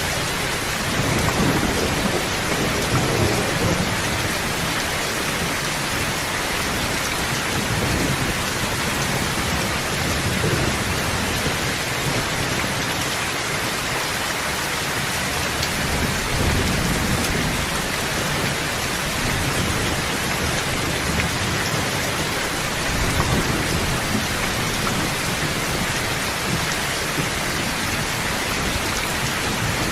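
Steady heavy rain hissing, with low rolls of thunder swelling a few times, near the start, around the middle and again a little later.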